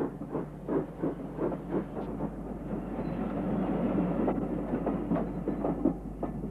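Steam train running, with a steady rhythmic beat of about three strokes a second that blurs into a continuous rumble mid-way before the beats return near the end.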